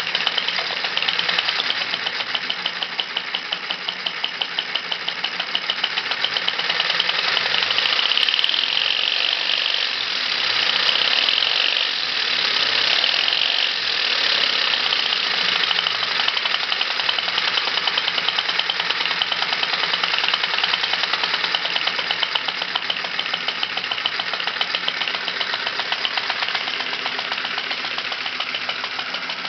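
Model oscillating twin-cylinder engine starting up abruptly and running fast and steadily, a rapid, even clatter of strokes.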